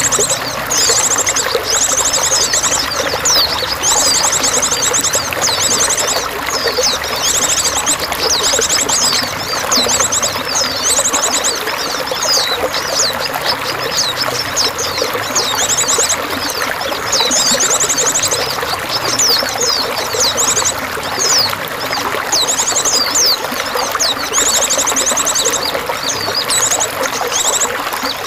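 Running water pouring and splashing steadily, with small birds chirping and giving rapid, high trills over it again and again.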